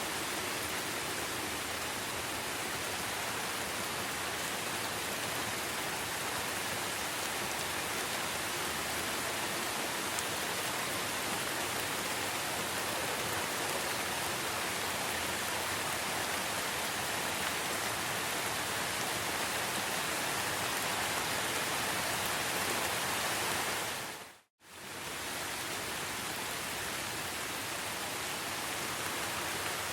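Steady rain falling in a forest, an even hiss. About 24 seconds in, it fades out to silence for a moment and fades back in.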